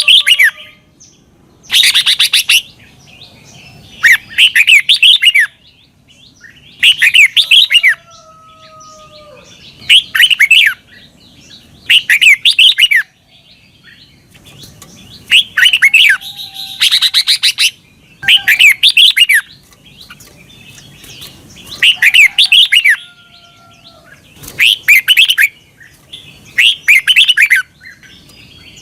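Red-whiskered bulbul singing: short phrases of rapid, up-and-down warbled notes, repeated every two to three seconds.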